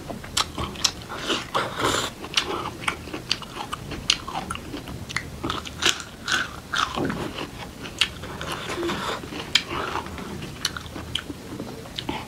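A person chewing and crunching mouthfuls of food, with frequent irregular sharp clicks and smacks.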